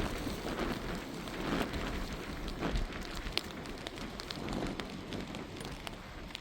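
Steady rain falling on a surface, with scattered drips and small knocks.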